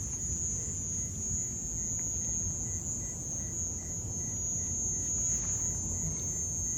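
Steady high-pitched trilling of night insects, with a fainter chirp repeating about two or three times a second, over a low rumble.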